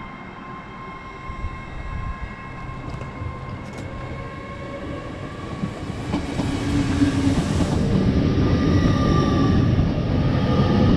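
TransPennine Express Class 802 bi-mode train approaching and running along the platform, its rumble of wheels on rail growing much louder about six seconds in as the front draws level, with a steady whining tone above it.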